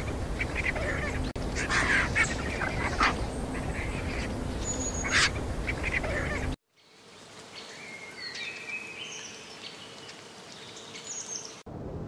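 Malaysian pied fantail calls: short, sharp chirps and squeaks over a steady background hiss, then after an abrupt cut about six and a half seconds in, a quieter run of clear whistled notes stepping up and down in pitch.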